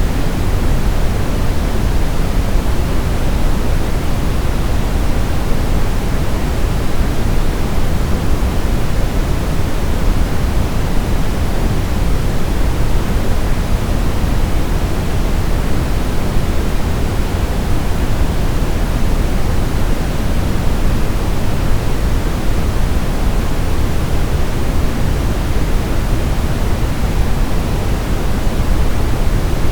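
Brown noise: a steady, unchanging deep hiss, strongest in the bass and falling off toward the treble, like a low rumble.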